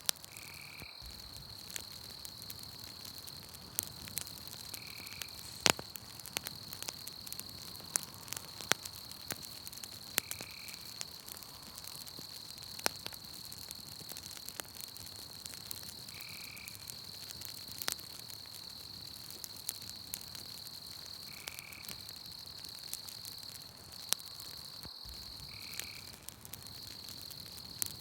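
Campfire crackling with scattered sharp pops over a steady high chirring of night-forest ambience. A short call repeats about every five or six seconds.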